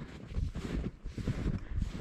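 Wind buffeting the microphone in gusts: uneven low rumbles with surges of hiss, and no engine tone.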